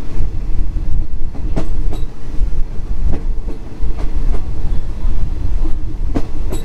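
Passenger train carriage running along the track, heard from an open window: a steady low rumble with a few sharp clacks as the wheels pass over rail joints.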